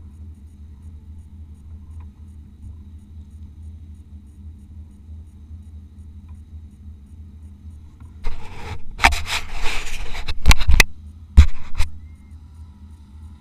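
Off-road race car's engine running with a steady low hum, heard from inside the vehicle. About eight seconds in, a loud noisy burst with several sharp knocks lasts about four seconds, then the steady hum returns.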